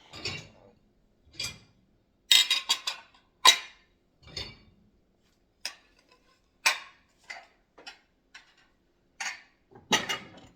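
Dishes and cutlery clinking and knocking as a dishwasher is unloaded and they are put away: a series of short, separate clinks, the loudest cluster about two to three and a half seconds in.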